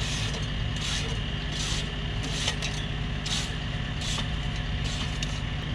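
Dirt being scraped off the excavator's tracks in short rasping strokes, roughly one a second, with a diesel engine idling steadily underneath.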